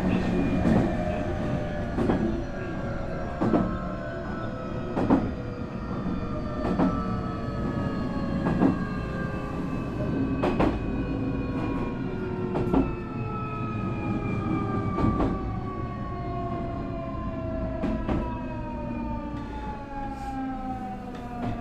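Nankai 8300 series electric train slowing down, heard from on board: the whine of its IGBT VVVF inverter and traction motors falls steadily in pitch. The rail-joint clicks under the car come further and further apart.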